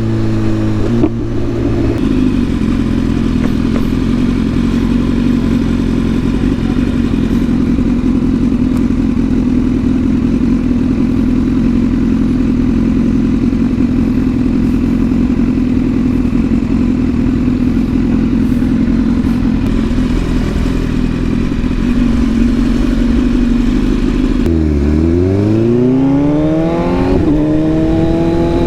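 Yamaha R6 sport bike's inline-four engine, heard from the rider's seat, running at a steady cruising note for about twenty seconds. Near the end the revs drop, then climb twice as it accelerates up through the gears.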